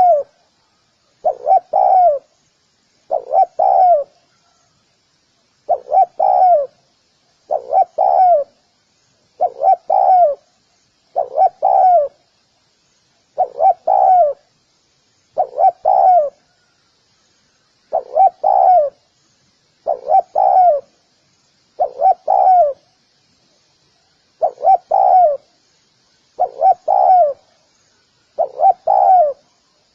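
Spotted dove calling, repeating a short cooing phrase of two or three falling notes about every two seconds, with a few longer pauses between phrases.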